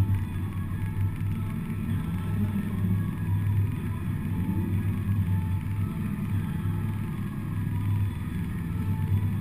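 Four-cylinder demolition derby car engine running, heard from inside the car, a steady low drone with a short rise in pitch about halfway through.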